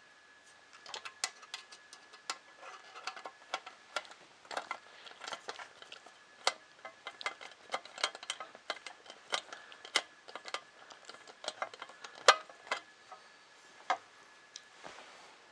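Irregular small clicks and taps of hard kit parts, screws and a small hand tool being handled while the 3D printer's bottom plate is screwed together, with a faint steady high whine underneath.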